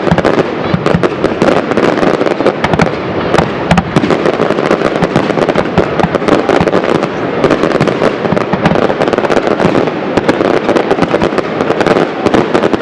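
Fireworks display going off in dense, unbroken volleys: many sharp bangs and crackles every second over a continuous rumble of shell bursts.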